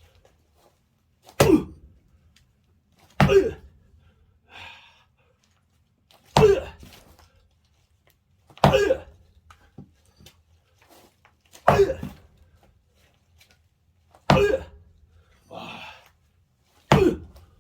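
Seven heavy axe blows into a thick log of firewood, one every two to three seconds, each a sharp thunk. The log is not splitting: the axe barely bites into the wood.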